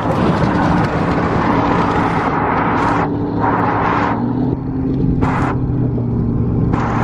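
Pickup truck driving at road speed: a steady engine and road drone, with rushing wind noise that drops away and returns a few times.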